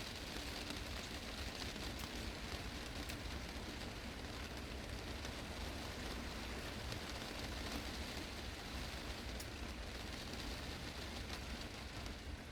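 Heavy rain drumming on a glass greenhouse roof: a dense, steady hiss of drops with individual taps ticking through it.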